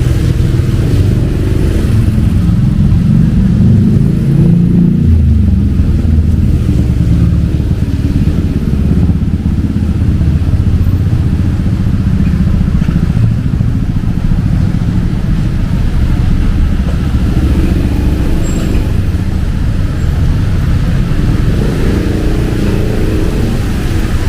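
Street traffic: motorcycles and cars running past, a steady low engine rumble that swells and eases.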